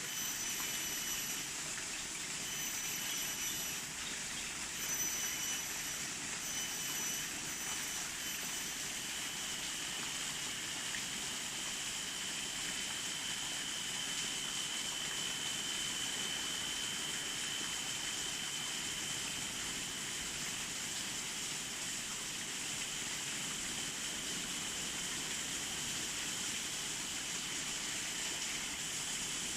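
Steady rushing wash of sea surf, with a thin high tone over it that comes in short repeated notes at first and is then held for about ten seconds.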